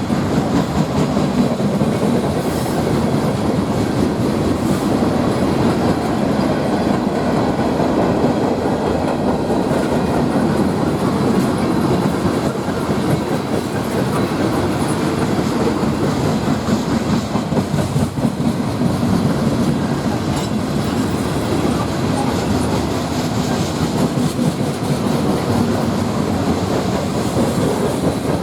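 Norfolk Southern freight train rolling past steadily, the noise of its wheels on the rails going on without a break.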